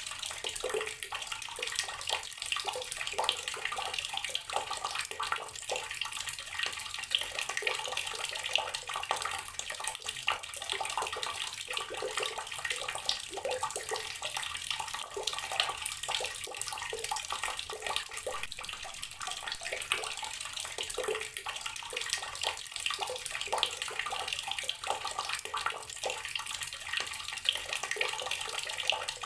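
Water running steadily from a tap and splashing into a basin or tub below, a constant rushing flow with small irregular splashes.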